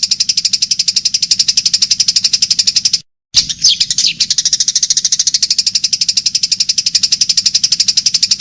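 Masteran training recording of a fast, high trill: a steady run of rapid, even ticks. It cuts out abruptly about three seconds in, then resumes with a short bending chirp over it.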